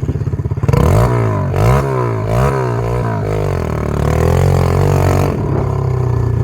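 SSR 125 pit bike's single-cylinder four-stroke engine idling, then revved in several quick blips from about a second in, holding a fast idle before dropping back to idle near the end. The engine is running with its exhaust off.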